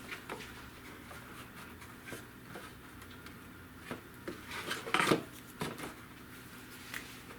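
Scattered small clicks and taps of hard plastic taillight lens parts being handled and set in place, the loudest few a little past the middle.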